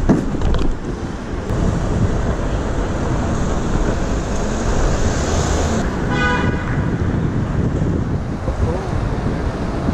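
Wind buffeting the microphone over city traffic noise. A short horn toot sounds about six seconds in.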